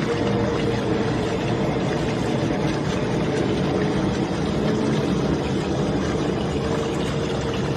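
Steady vehicle running noise: a continuous rumble and hiss with a faint steady hum, unchanging throughout.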